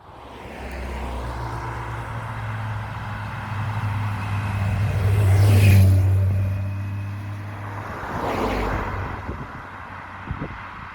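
Motor vehicle engine running at a steady pitch on the road, with a loud swell about halfway through and a smaller one a few seconds later, like vehicles going past.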